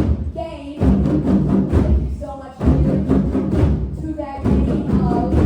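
A group of hand drums playing short rhythmic phrases in call-and-response, the group echoing back a phrase. Brief vocal exclamations come between the phrases.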